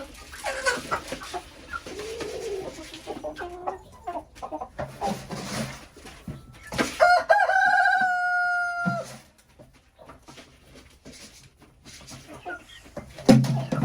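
Chickens clucking, then a rooster crows once about seven seconds in, a long held call of about two seconds.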